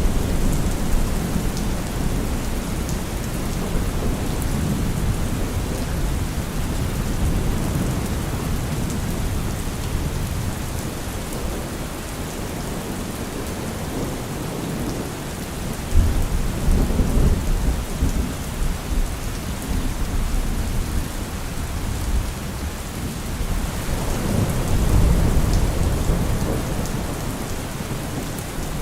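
Steady rain with thunder. A low rumble of thunder starts suddenly a little past halfway, and another swells up and dies away near the end.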